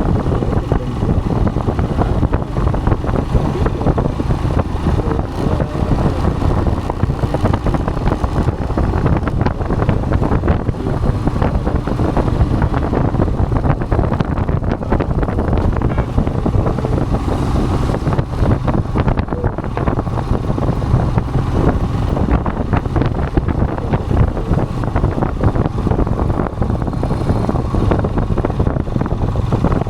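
Royal Enfield Himalayan's single-cylinder engine running steadily under way, with wind rushing over the microphone.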